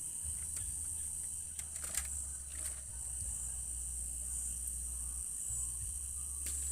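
Crickets chirring in a steady, high-pitched night chorus, over a low steady hum, with a few sharp clicks scattered through, the loudest about two seconds in.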